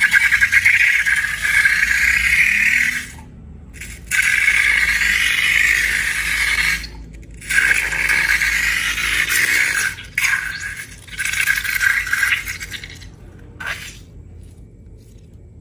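Crackly scraping and rattling, like small hard bits being stirred or scraped in a container, coming in several bursts with short breaks between them and dying down near the end.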